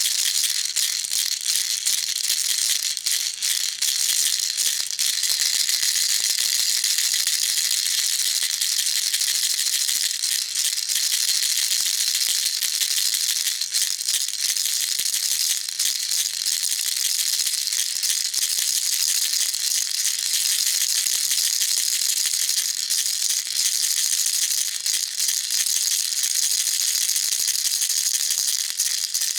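Baby rattle shaken continuously: beads or pellets rattling inside a small plastic toy, a dense steady shaking with no pauses.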